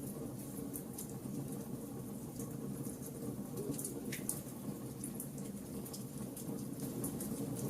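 Wood fire burning: a steady low rush of flames with scattered sharp crackles and pops from the burning wood, about one every fraction of a second.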